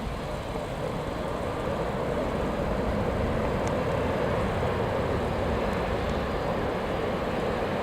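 Jet engines of an Airbus A320neo airliner (CFM LEAP-1A turbofans): a steady rushing engine noise that grows a little louder about two seconds in.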